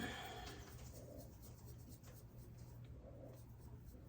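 Faint scratchy shaking of seasoned salt from a shaker over a pot, in short taps.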